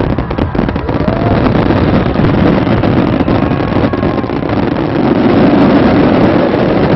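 Fireworks finale barrage: many shells bursting at once, blending into a continuous loud rumble with crackling reports. It starts suddenly and builds to its loudest just before the end.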